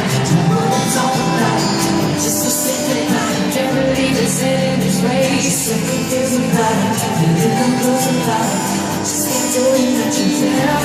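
Live pop band music with singing, played loud and without a break.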